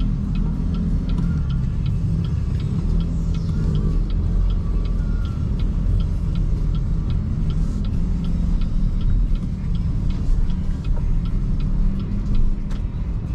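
Car turn-signal indicator ticking evenly, about two and a half ticks a second, over steady road and tyre rumble inside the cabin of a BYD Seagull electric car. The ticking stops near the end.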